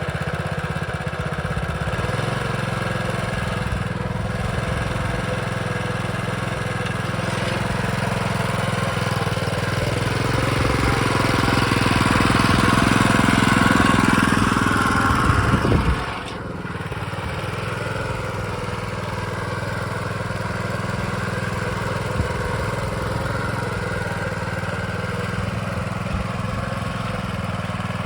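Small Honda engine on a David Bradley model 135 walk-behind tractor, running just after starting. It grows louder and higher from about ten seconds in, then drops back suddenly at about sixteen seconds and runs steady.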